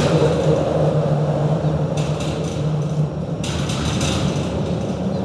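Steady low drone of vehicle traffic and engines, with a rise in hiss about two seconds in and again about four seconds in.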